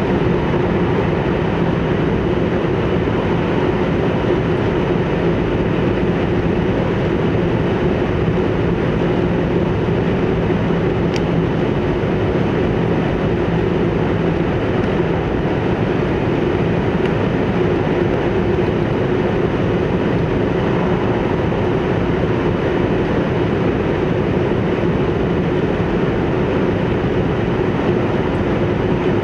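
Hayabusa Shinkansen train running steadily, heard from inside the passenger car: a constant rumble and rushing noise with a steady hum underneath. A single faint click comes about eleven seconds in.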